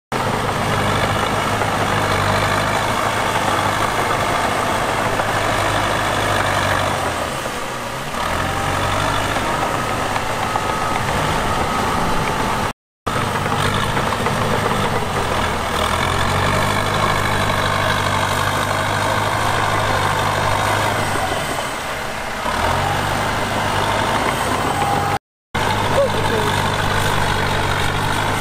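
Diesel engine of heavy earthmoving machinery running hard. Its note drops away briefly about 8 seconds in and again about 22 seconds in, then picks up again. Two short dropouts to silence break it.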